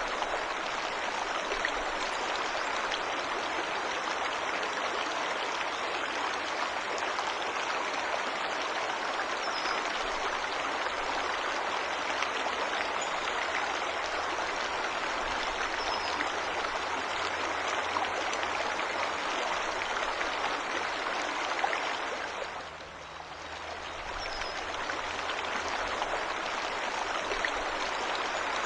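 Waterfall's rushing water, a steady, even rush that dips briefly about two-thirds of the way through, with a few faint bird chirps high above it.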